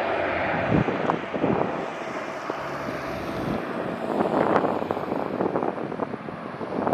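Jet airliner engine roar, heard as a broad rushing noise, mixed with wind buffeting the microphone in uneven gusts.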